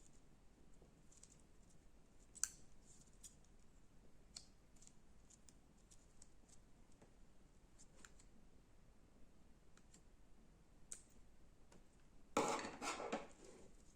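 Slime being handled and worked: faint scattered clicks and crackles, with a louder crunchy burst lasting about a second near the end.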